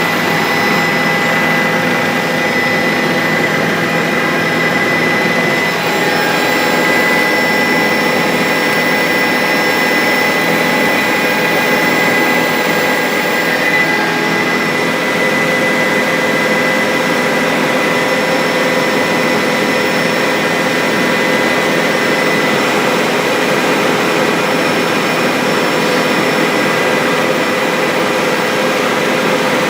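Bell 407 helicopter's single turboshaft engine and rotor running steadily: a constant loud noise with a steady high whine over it.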